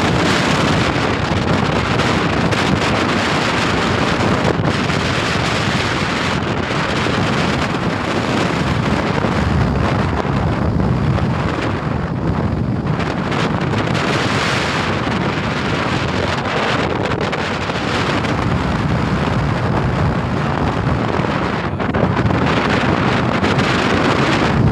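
Strong wind buffeting the microphone, steady and loud, over the wash of rough sea around a boat.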